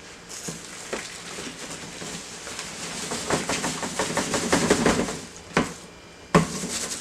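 A bird-cage tray being handled and knocked against a trash bin while spilled bird seed clatters out into it, with a few sharp knocks, the loudest near the end.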